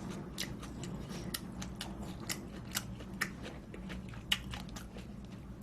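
A person chewing food close to the microphone, with many short, crisp clicks and smacks coming irregularly.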